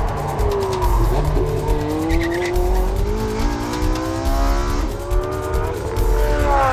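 Porsche 918 Spyder's 4.6-litre V8 accelerating hard at high revs, its pitch climbing through each gear and dropping back at the upshifts, about three times.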